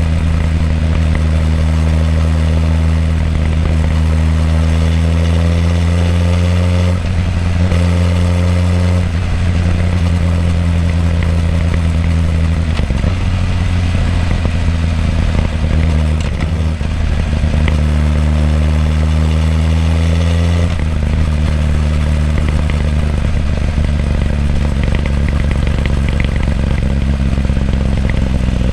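Exhaust of a Suzuki GSX-R1000R L8's inline-four engine through its stock muffler, heard up close while riding in traffic. The engine note climbs gradually and drops back at each gear change, several times over.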